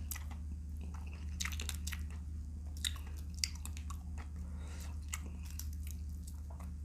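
Close-miked chewing of vinegar-stewed shrimp: irregular wet clicks and small crunches from the shrimp and shells being bitten and chewed.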